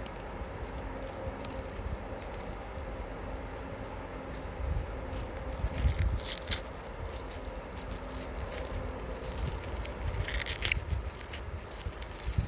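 Outdoor ambience by the Seomjin River: a steady low rumble, with two brief crackling bursts, one about halfway through and one near the end.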